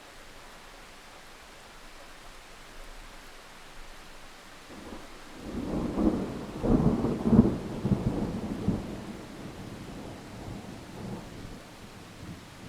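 Steady rain with a roll of thunder that builds about five seconds in, cracks and rumbles loudest over the next few seconds, then rolls away.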